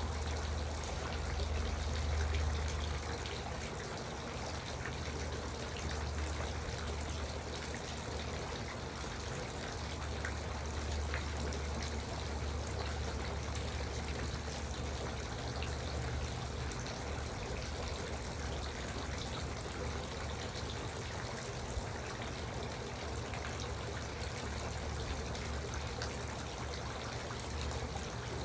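Garden water fountain running steadily, water trickling and splashing with a low rumble underneath.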